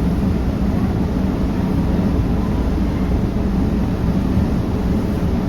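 Ferry engines running with a steady low rumble.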